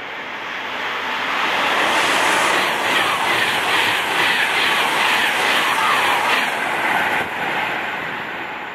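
Virgin Class 390 Pendolino electric train running through at high speed. The rush of wheels on rail swells, then a fast rhythmic clatter of wheels over rail joints comes through the middle as the coaches pass, and it fades near the end as the train goes by.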